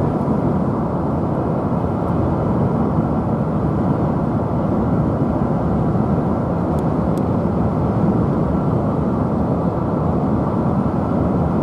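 Steady road and engine rumble heard from inside a moving vehicle's cabin, dull and even throughout, with little treble.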